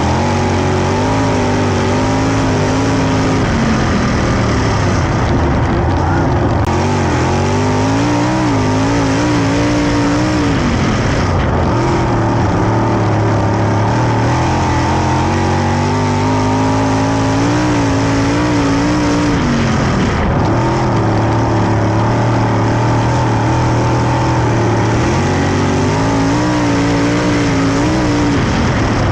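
410 sprint car V8 at racing speed. The engine pitch climbs, then drops off sharply, over and over: on the gas down the straights and off the throttle into the turns.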